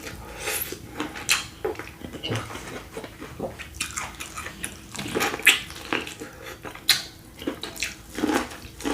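Wet eating sounds of a sauce-covered seafood boil: chewing and lip smacking in irregular short, sharp bursts.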